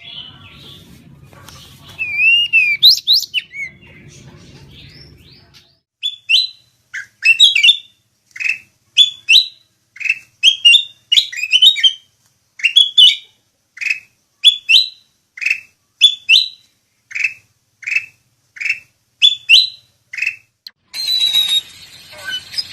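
A songbird calling: a long series of short whistled notes that slide down, about one or two a second, after a few seconds of scattered whistles over a low hum.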